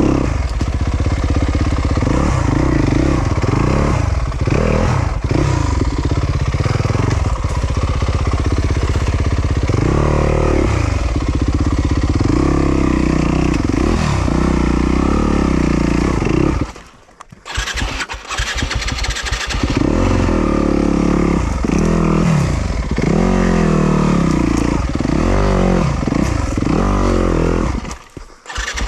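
2020 Yamaha YZ250FX's 250 cc four-stroke single-cylinder engine revving up and down hard over rough terrain. About two-thirds of the way through the engine sound drops away for a couple of seconds and then comes back, with a shorter dip near the end.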